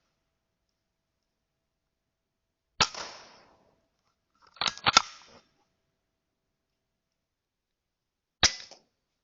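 Weihrauch HW100 .22 PCP air rifle firing: a sharp crack about three seconds in, a quick cluster of sharp clicks and cracks around five seconds, and another crack near the end.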